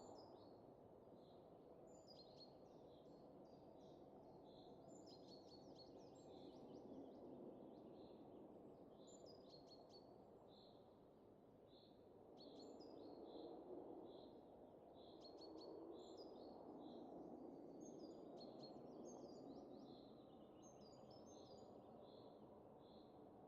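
Soft wind rising and easing in slow gusts, with small birds chirping over it and one high note repeating roughly once a second.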